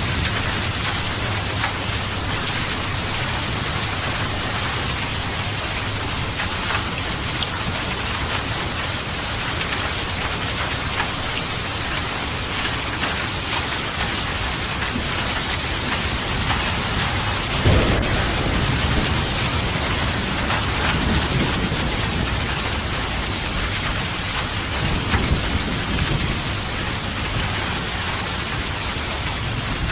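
Steady rain falling, with thunder: a sudden loud thunderclap a little past halfway, followed by lower rolling rumbles.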